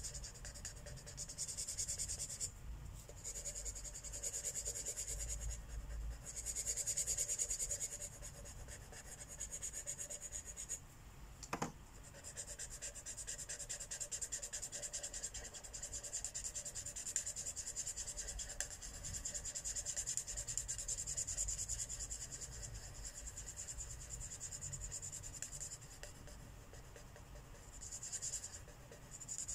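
Felt-tip marker rubbing on paper in quick back-and-forth coloring strokes, stopping briefly a few times, with one short click a little before the middle.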